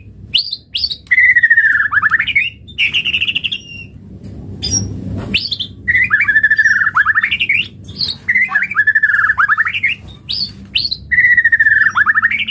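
White-rumped shama (murai batu) singing: phrases of a held whistled note broken by quick rising trills and short upswept notes, repeated every second or two, with a short pause about a third of the way in.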